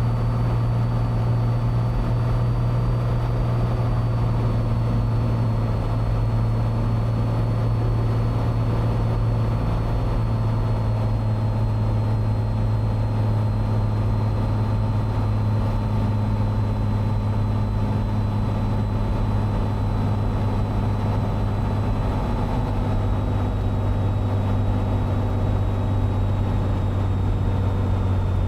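Cessna 182's engine and propeller droning steadily on final approach, with a strong low hum and a thin high whine that slowly drops in pitch.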